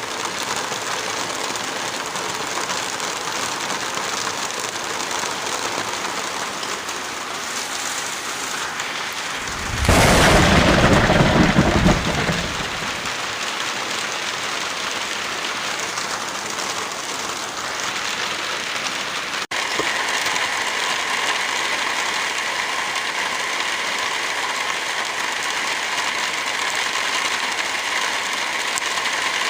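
Steady heavy rain, loud and even, with a thunderclap about ten seconds in that rumbles for roughly two seconds. Around two-thirds of the way through, the rain cuts out for an instant and resumes slightly louder and hissier.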